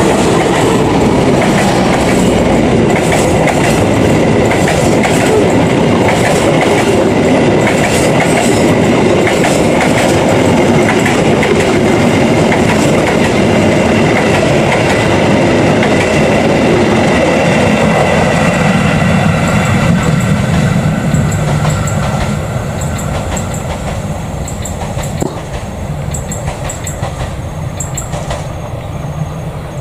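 Argo Wilis express passenger train's coaches rolling past close by, the wheels clattering over the rail joints, with a thin steady high whine. From about two-thirds of the way through, the sound fades as the train draws away.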